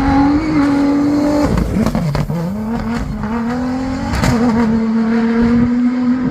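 Rally-raid competition vehicle's engine running hard at high revs, held at a steady pitch. About one and a half seconds in the revs drop sharply, then climb back and hold again. A few sharp cracks are heard, one near the dip and one about four seconds in.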